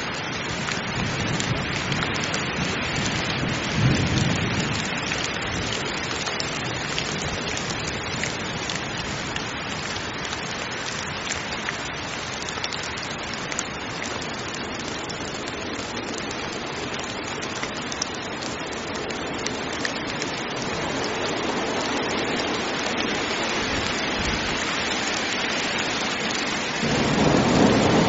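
Heavy rain falling steadily, with a low rumble of thunder about four seconds in. Near the end the rush grows louder and deeper.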